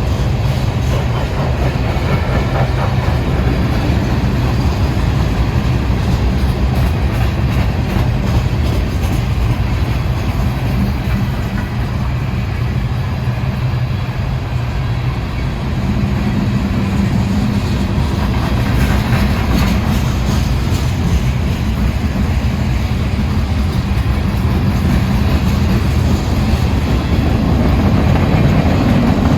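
Freight train rolling past as a steady, loud rumble of wheels on rail, with clacking as the wheels cross rail joints.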